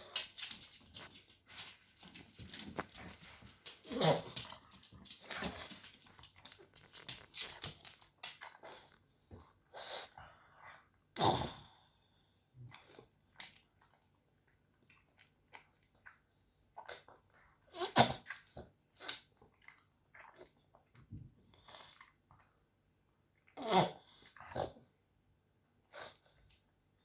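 Pug sneezing again and again, in short sharp bursts, with quieter short breathy sounds between; the loudest sneezes come about 4, 11, 18 and 24 seconds in.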